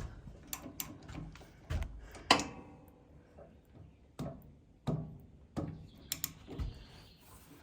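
Scattered metal knocks and clanks from tools being worked against the sawmill's steel parts, about nine in all. The loudest comes a little over two seconds in and rings briefly.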